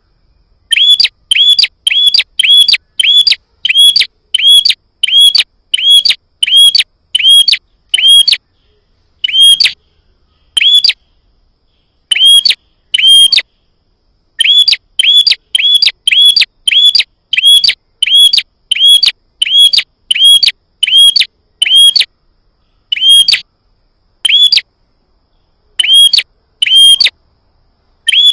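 Prinia (prenjak) call notes used as a lure: one loud, sharp note repeated about twice a second in runs of identical notes, with short pauses between the runs.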